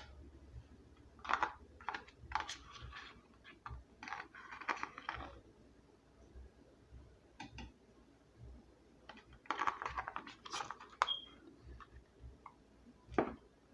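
Scattered light clicks, scrapes and short rustles of kitchen handling as sour cream is added to soft tacos on a plate, coming in several small clusters a few seconds apart with a sharper click near the end.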